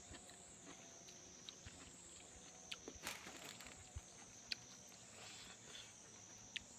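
Quiet mouth sounds of someone eating: a few sharp smacks and clicks of chewing, the loudest about three, four and four and a half seconds in. Under them runs a steady high-pitched insect drone.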